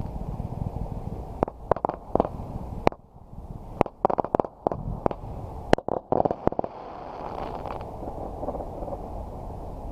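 Fireworks going off: a rapid string of a dozen or so sharp bangs and cracks over about five seconds, starting a second and a half in, over steady background noise.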